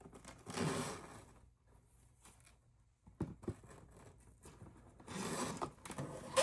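A string being pulled through a punched hole in a foam-board craft box: two short noisy pulls about four and a half seconds apart, with a few light clicks of handling between them.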